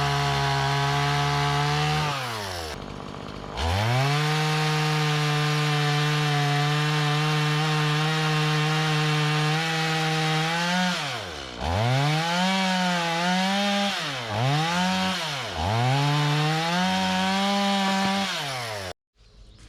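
Two-stroke chainsaw bucking a log, held at high revs. It drops briefly to idle soon after the start, is revved up and down several times in the second half, and stops abruptly just before the end.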